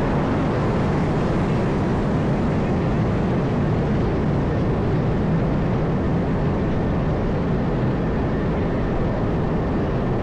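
Steady downtown street noise: a constant low rumble of traffic and city machinery with no single event standing out.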